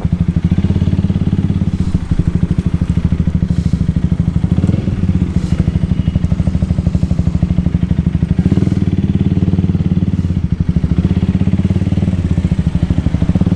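Honda Rebel motorcycle engine running steadily under way, a fast, even train of exhaust pulses.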